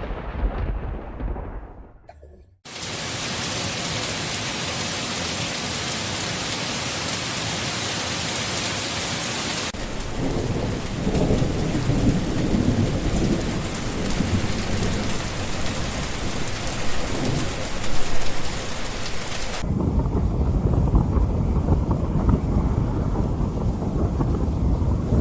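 Thunderstorm: a thunder rumble dies away in the first two seconds, then heavy rain starts abruptly as a steady hiss. About ten seconds in, rolling thunder rumbles under the rain. Near the end the sound turns deep and muffled, mostly low rumble with little hiss.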